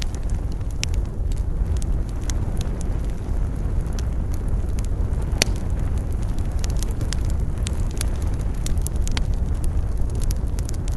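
Campfire burning, with irregular crackles and pops over a steady low rumble of wind, and one sharper pop about halfway through.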